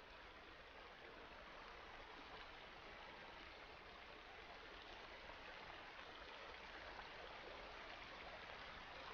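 Faint, steady rush of flowing water, slowly growing louder.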